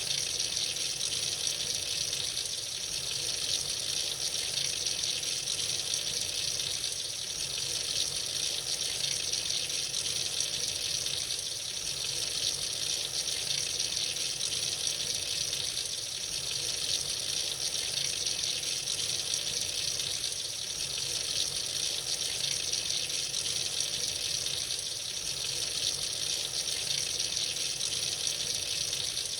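Tap running freely into a sink, a steady hiss of falling water.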